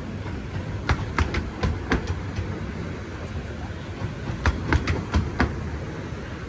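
Miniature 15-inch gauge railway coaches rolling past at close range: a steady low rumble, with two quick runs of sharp clicks as the wheels cross rail joints, about a second in and again past the middle.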